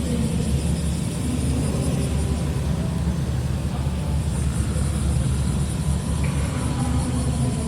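Modified show car's engine and exhaust running steadily at low revs, a deep rumble with no revving.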